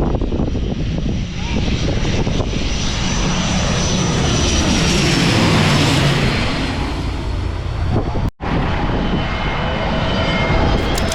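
Jet airliner passing low overhead, its engine noise swelling to a peak about six seconds in, with a high whine that falls slightly in pitch as it goes by. The sound cuts out for an instant a little after eight seconds, then steadier engine whining tones continue.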